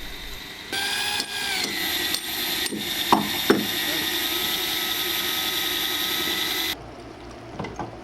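Electric power tool running with a steady high whine that drops slightly in pitch soon after it starts, with two sharp knocks in the middle; it starts and stops abruptly.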